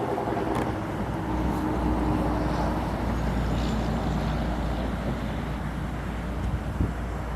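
Wind gusting against the microphone as a low rumble, over the steady rush of river water, during a snowstorm. A faint steady hum runs underneath.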